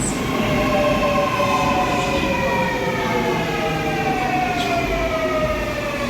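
Seoul Subway Line 4 electric train's inverter and traction motors whining in several tones that fall steadily in pitch as the train slows into the station, over the rumble of the train.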